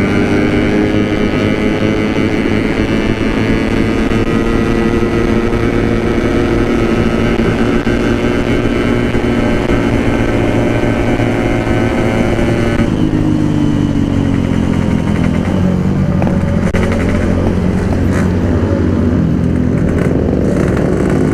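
Yamaha RX-King two-stroke single-cylinder motorcycle engine running under way at a steady pitch. About 13 seconds in the throttle closes and the engine note falls as the bike slows, then it rises again near the end as the throttle opens.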